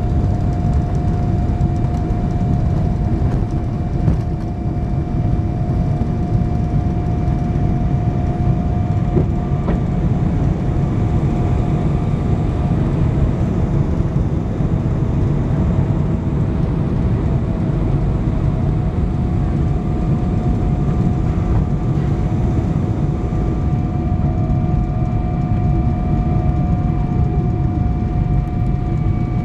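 Boeing 777-200 cabin noise: a steady low rumble with several steady engine whine tones over it, one of which slides slightly lower near the end.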